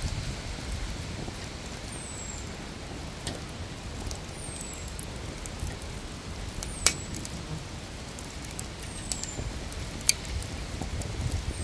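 A bird repeating a short, high, falling whistle about every two and a half seconds, over scattered sharp clicks and crackles from a charcoal grill cooking chicken thighs; two louder clicks come about seven and ten seconds in.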